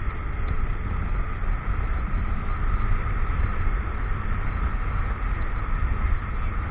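Motorcycle running along the road, its engine drone mixed with steady wind rumble buffeting the action camera's microphone.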